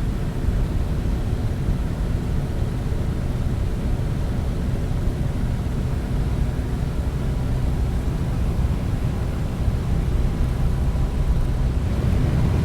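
Aircraft engine running with a steady, unbroken low drone.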